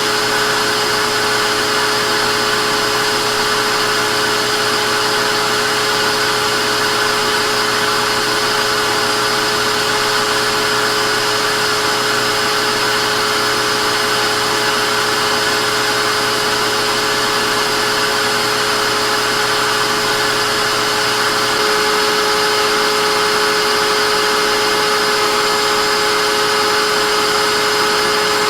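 Vacuum cleaner motor running steadily: a loud, even rushing whine with a few fixed tones in it. Near the end the tone shifts slightly as a low hum drops out and a higher note comes in.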